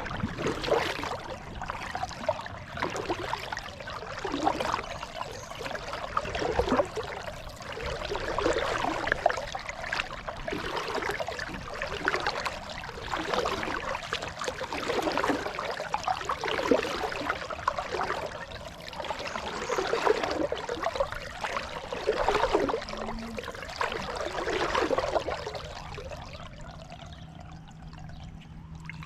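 Kayak paddle strokes: water splashing and pouring off the blades in swells about every two seconds, easing off near the end.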